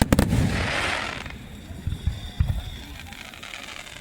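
Aerial fireworks: sharp bangs right at the start, then about a second of crackling, then a few low booms about two seconds in that fade away.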